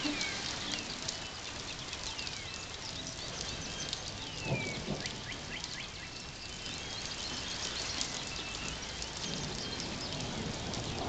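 Outdoor background with birds calling: short falling whistles repeated every second or two, over a steady hiss and scattered light ticks.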